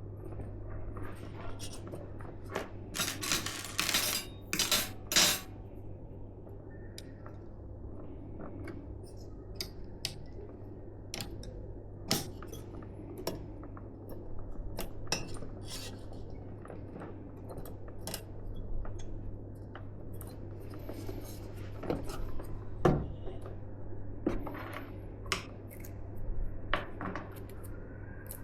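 Small hard plastic and metal PC parts being handled and set down: scattered clicks and clinks, a burst of rustling a few seconds in, and the sharpest knock about two-thirds of the way through, over a steady low hum.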